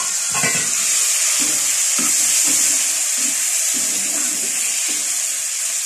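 Karela, onions and freshly added tomatoes sizzling in hot oil in a pan, a steady hiss, with a spatula stirring and scraping through the vegetables. A sharp clink right at the start.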